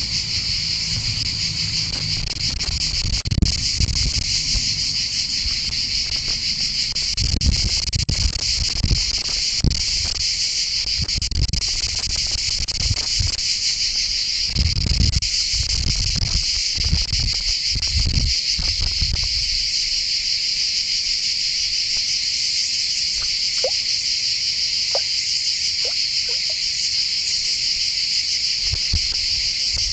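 Steady, dense high-pitched chorus of insects, typical of crickets, with irregular low rumbles underneath.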